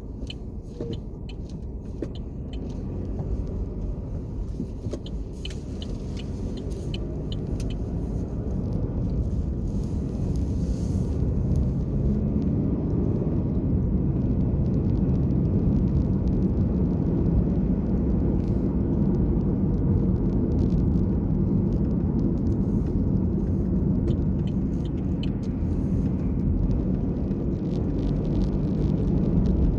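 Car driving on a road: a steady low rumble of engine and tyre noise that grows louder over the first dozen seconds, then holds steady.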